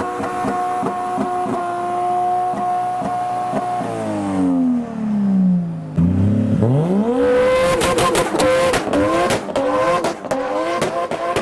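Nissan Skyline R34's engine held at high revs with sharp crackles. The revs fall away about four seconds in, then climb quickly and are held high again about six seconds in with more pops and crackles. Loud.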